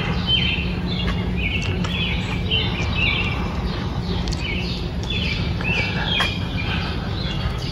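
Small birds chirping: short, high chirps, about two or three a second, over a steady low rumble.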